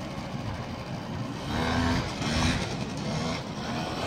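Scooter engine running and revving up and down a few times, its pitch rising and dropping over a steady low rumble.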